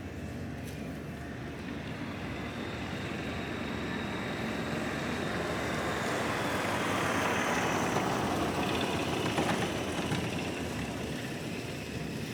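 A vehicle passing: a steady rumble that swells to its loudest about eight seconds in, then fades away.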